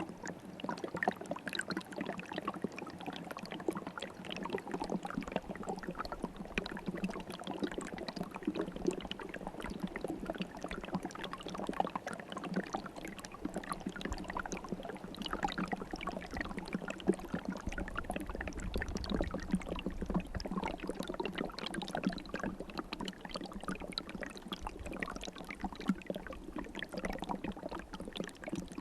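River water flowing and gurgling over stones: a steady rush of many small splashes, with a low rumble swelling briefly a little past the middle.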